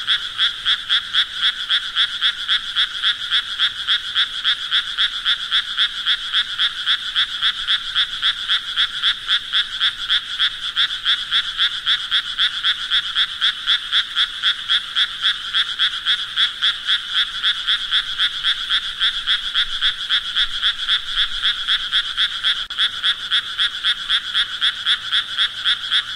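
Frogs croaking in a steady chorus: a rapid, even pulsing of calls, about three a second, that goes on without change.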